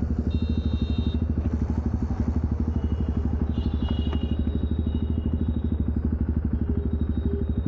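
Jawa Perak's 334 cc single-cylinder engine running at a steady cruise, its exhaust thumping in a fast, even beat.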